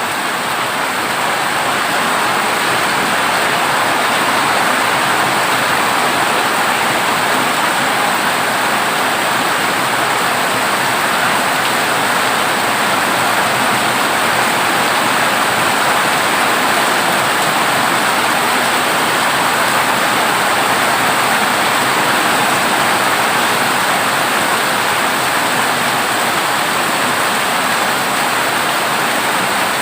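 Heavy rain pouring steadily onto a corrugated zinc roof, a dense, even rush with no thunderclaps.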